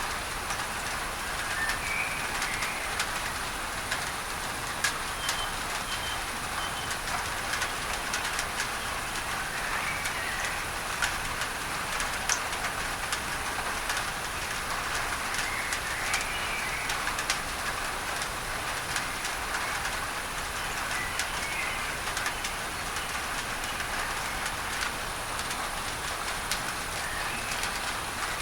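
Steady rain falling on a tin roof, with individual drops ticking, layered with a masking noise hiss. Faint bird chirps come and go throughout.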